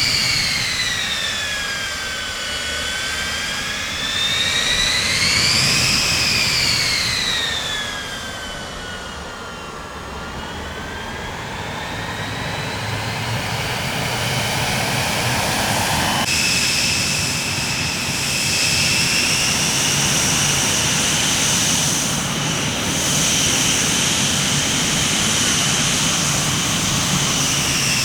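Jet airliner engines running with a high turbine whine over a low rumble. The pitch sinks, climbs and sinks again over the first ten seconds, then jumps abruptly a little after halfway to a steadier, higher whine.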